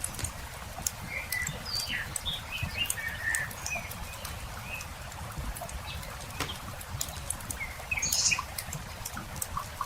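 Campfire crackling with frequent sharp pops and a low steady rumble, while small birds chirp and trill throughout.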